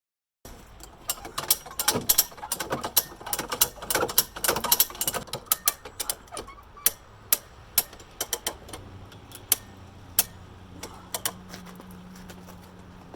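Come-along hand winch ratcheting as it is cranked to pull bent car body metal: a fast run of sharp clicks that thins to scattered single clicks after about six seconds.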